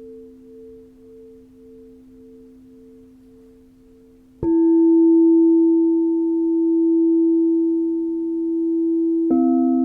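Crystal singing bowls: a fading bowl tone pulses slowly, then a bowl is struck about four seconds in and rings out loud and steady. Near the end another bowl is struck and adds a lower tone.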